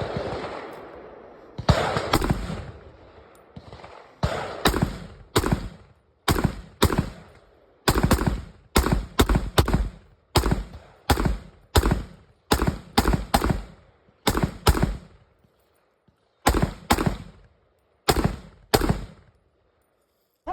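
About two dozen semi-automatic rifle shots from a 7.62x39 AK-pattern Micro VSKA pistol. They are fired in quick doubles and singles with short pauses between strings.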